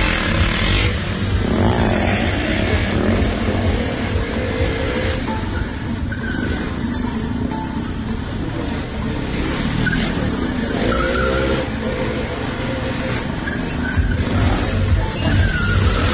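KTM motorcycle engine revving and changing pitch during stunt riding, with short squealing tones at several points, over loud music with a heavy bass.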